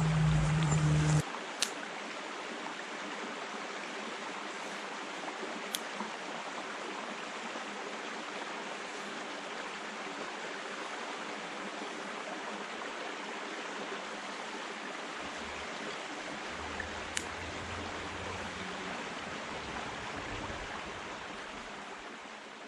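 Steady rushing of flowing stream water, with a few sharp pops from a small twig fire, the clearest near the start, about four seconds later and near the end. A louder low hum cuts off about a second in.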